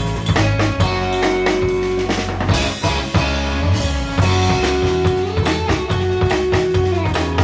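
Surf-rock band playing live: an instrumental with electric guitar melody over bass and a drum kit keeping a steady beat.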